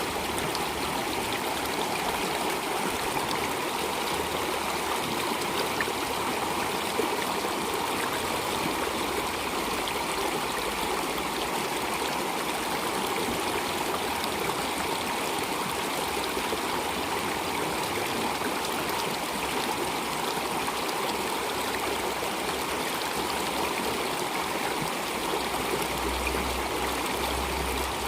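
Water flowing steadily in a stream, an even rushing sound with no breaks or changes.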